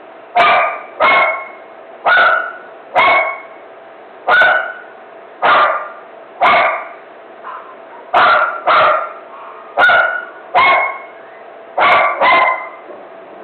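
A dog barking repeatedly, about once a second, sometimes two barks in quick succession.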